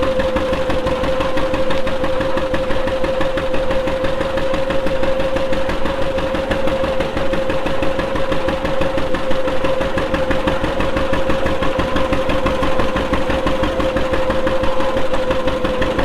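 Antique farm tractor engine running steadily under way, its fast, even firing pulses carrying a constant whine.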